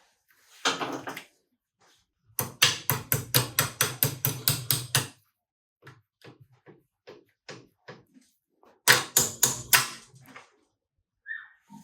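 Hammer tapping on metal while a dirt-bike foot peg and its spring are fitted to the frame: a quick run of taps, about five a second for nearly three seconds, then a few light ticks and a second short run of strikes near the end.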